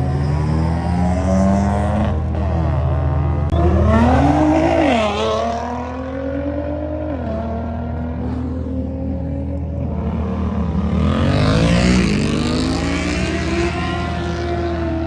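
Car engine revving at a standstill: the pitch climbs sharply and falls back several times, with the biggest revs about four seconds and eleven seconds in, over a steady low rumble.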